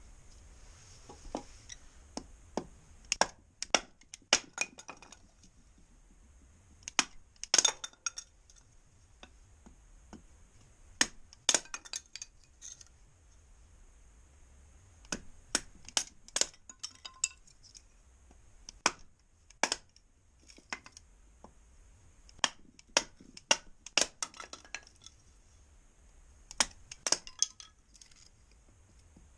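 Dry kindling wood being snapped and handled by hand: clusters of sharp cracks and clinks with short pauses between them.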